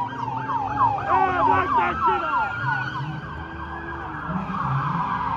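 Police car sirens sounding, more than one at once: a rapid yelp over a long wail that slowly falls in pitch. The yelping fades out about halfway through, with vehicle engines running underneath.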